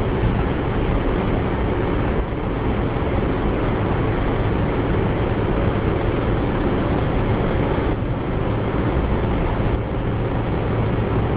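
Steady road and engine noise inside a moving car, with a constant low hum.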